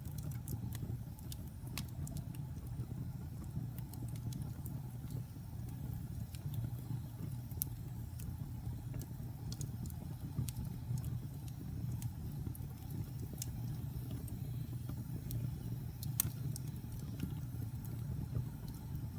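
Wood fire burning in a fireplace: a steady low rumble of the flames with scattered sharp crackles and pops, two louder pops near the middle and toward the end.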